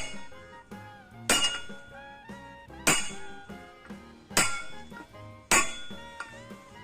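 Five sharp metallic taps of a hammer striking metal, about one every second and a half, each ringing briefly. Background music plays under them.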